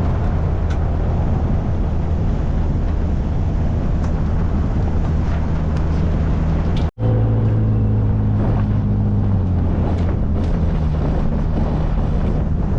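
Car driving on a dirt road: steady engine hum and tyre and road noise, which breaks off for an instant about seven seconds in, then carries on with a slightly different hum.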